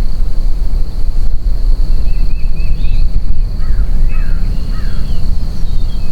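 Wind buffeting the microphone with a steady low rumble, while birds call in short runs of chirps, with a few brief falling calls midway.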